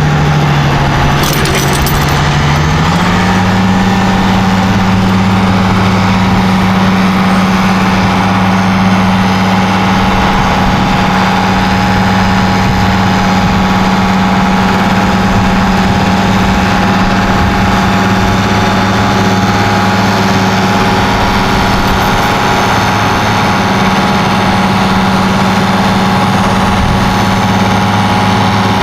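Engine of the vehicle towing the seized tractor running steadily, picking up speed slightly about three seconds in and then holding.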